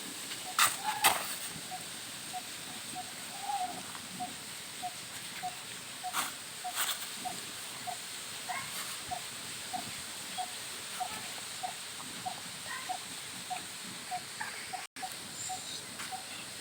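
A bird peeping over and over, short even peeps about two a second. A few sharp knocks come about a second in and again about six seconds in.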